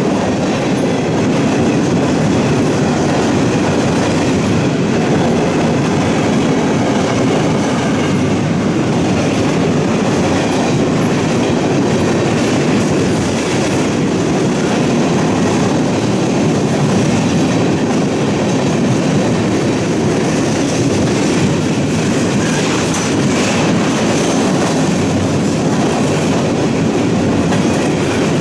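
A train rolling past on the mainline, steel wheels running over the rails in a loud, steady rumble.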